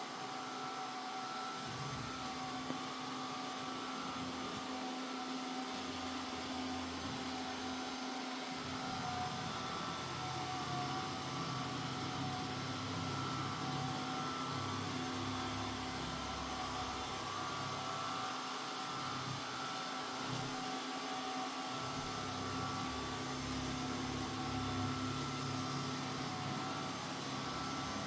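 Mova Z60 robot vacuum-mop running on a cleaning pass, its suction fan giving a steady hum with a thin whine. A lower rumble swells and fades now and then as it moves.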